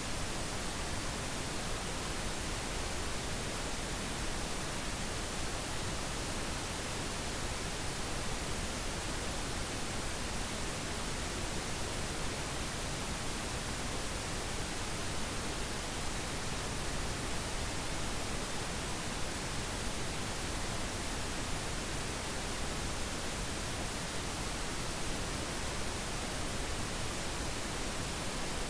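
Steady synthetic pink noise: an even, unchanging hiss spread across the whole range, with no events or changes.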